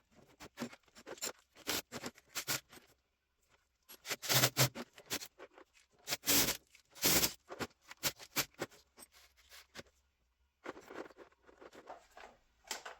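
Brake line flaring tool being worked on a steel brake line: irregular metallic clicks and clatters, with two short pauses.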